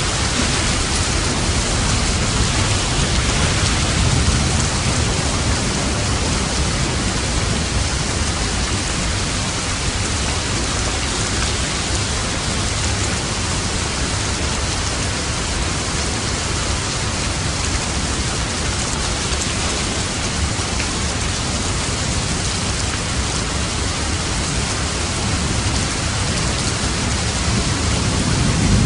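Steady heavy rain falling in a thunderstorm, with low thunder rumbling about four seconds in and again near the end.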